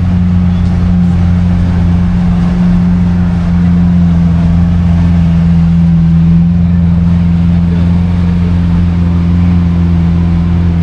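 A car engine idling with a steady low hum that holds even in pitch and level throughout.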